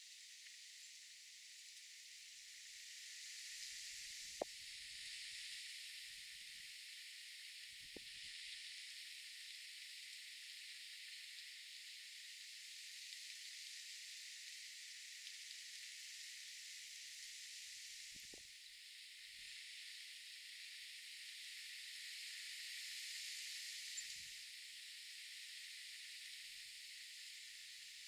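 Steady, faint high-pitched hiss of outdoor ambience with a thin high tone that comes and goes, and a few soft ticks.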